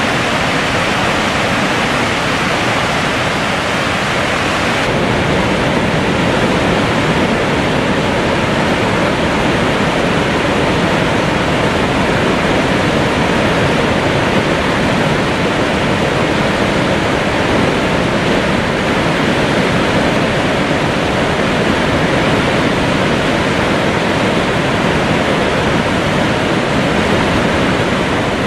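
A heavy river waterfall pouring down, a loud, steady rushing of water; its tone shifts slightly about five seconds in.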